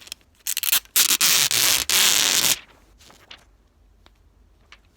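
Protective plastic film being peeled off a phone: a few short crackles, then a loud rasping peel lasting about two seconds, followed by faint handling ticks.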